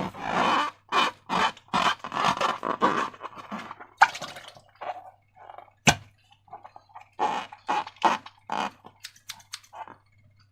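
Slime being squished and worked by hand, a run of irregular wet squelches, thinning out in the second half, with one sharp click about six seconds in.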